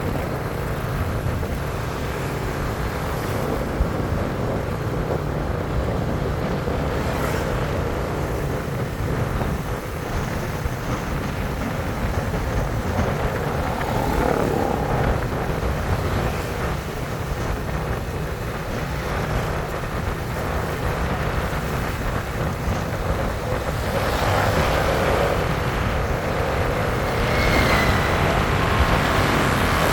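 Steady road noise of a bike being ridden: the vehicle running along with low rumble, growing a little louder in the last few seconds.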